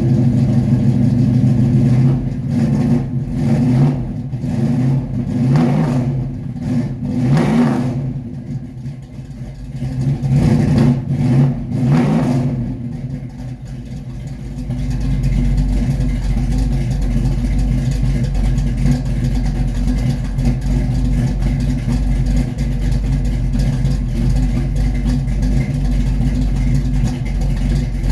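A loud car engine warming up after its first cold start of the season: revved in a series of short throttle blips, then settling about halfway into a steady, deep-rumbling idle.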